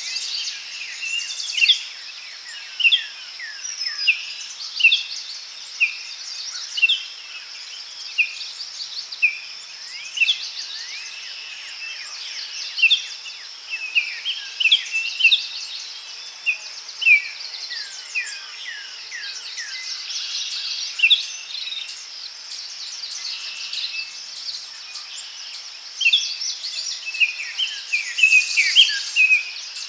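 Daytime forest chorus: many songbirds chirping and whistling in short, quick phrases over a steady high insect trill.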